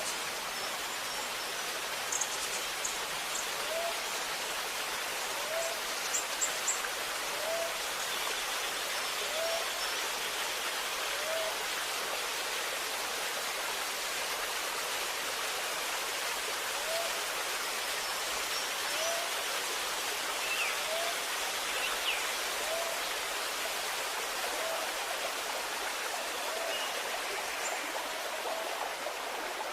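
Steady gurgling of running water in a forest stream. Over it a bird repeats a short low call about every two seconds, with a few brief high chirps from other birds now and then.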